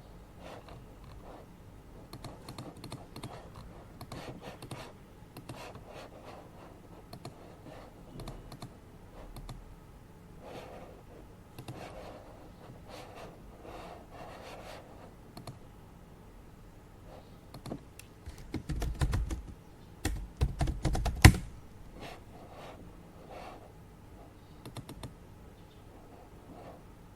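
Typing on a computer keyboard: a run of uneven key clicks. About two-thirds of the way through comes a louder burst of thuds and knocks on the desk, ending in one sharp hit.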